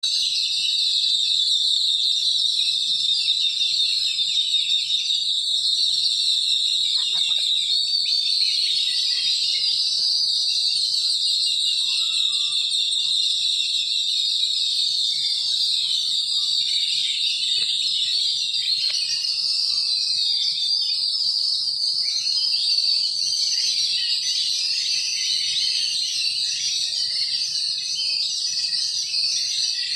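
A dense, loud chorus of many small birds chirping and twittering at once, unbroken throughout.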